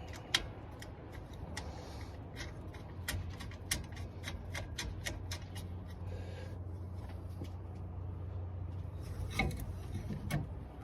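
Hand tools working a 10 mm bolt into the radiator hose bracket: a string of quick metallic clicks, some in a run of about five a second, with a louder knock near the end, over a steady low hum.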